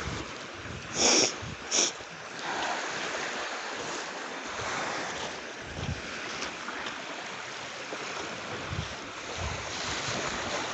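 Steady wash of small waves on a beach, with wind noise on the microphone. Two short rustling noises come about a second in and again a little later.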